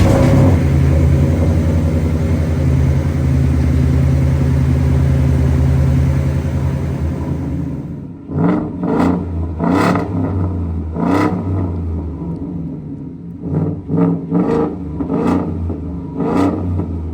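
Ford F-150 5.0 V8 running through a Flowmaster Super 44 true dual exhaust: a steady idle for about eight seconds, then a series of about nine short throttle blips, each rising and falling quickly.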